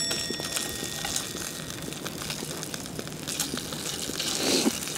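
Chicken pieces frying in butter in a small aluminium pan on a gas camping stove: a steady sizzle with scattered small clicks of a fork turning the meat against the pan.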